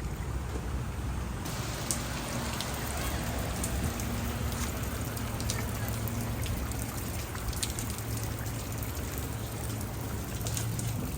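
Steady rain falling, with many sharp drop ticks on a nearby surface starting about a second and a half in, over a low steady rumble.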